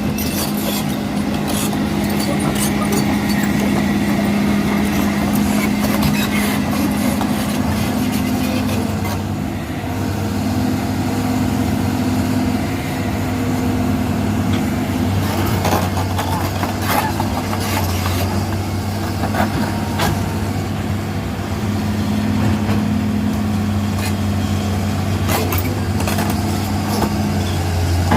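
Excavator's diesel engine running steadily under changing load, its hum swelling and easing every few seconds, with scattered short knocks and clanks.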